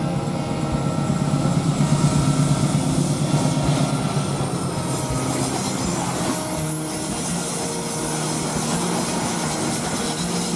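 Diesel locomotive engine throbbing as a train passes. The throb is steady, swells about two seconds in and then eases slowly, with a faint high whine above it.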